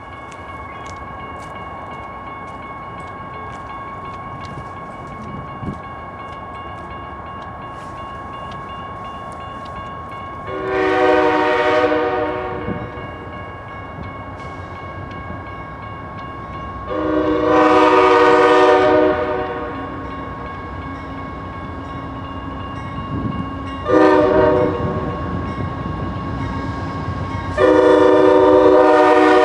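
Locomotive air horn sounding the grade-crossing signal, long, long, short, long, each blast a chord of several notes. A steady high ringing tone continues underneath.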